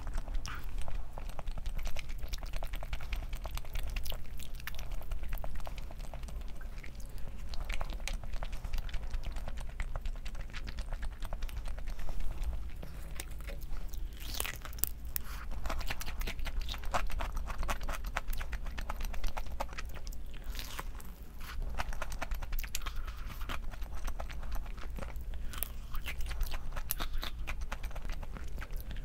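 A person chewing and biting food close to the microphone, with irregular crunchy, crackling bites, over a steady low hum.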